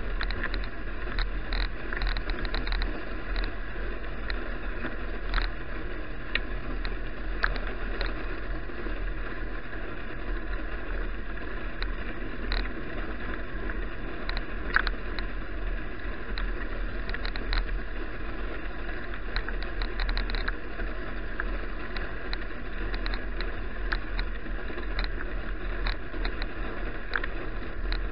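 Bicycle riding on a snowy road as picked up by a bike-mounted action camera: steady rumble of tyre and road noise with frequent small clicks and rattles scattered throughout.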